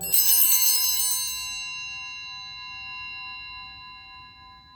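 A single altar bell struck once, its bright ring dying away slowly over several seconds, marking the elevation of the consecrated bread after the words of institution.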